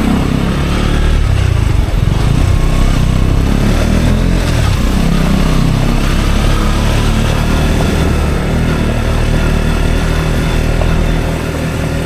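KTM Duke 125's single-cylinder four-stroke engine running through an Akrapovic exhaust during a ride, a steady loud drone that eases slightly near the end.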